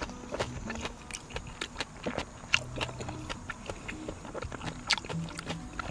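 Close-up eating sounds: chewing and biting on a mouthful of jjajangbap (rice with black-bean sauce), with many short sharp clicks and smacks, over soft background music with low held notes.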